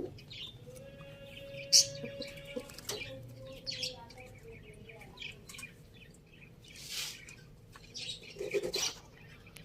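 Chickens feeding: scattered short chirps and peeps with a few sharp clicks, the loudest click a little under two seconds in.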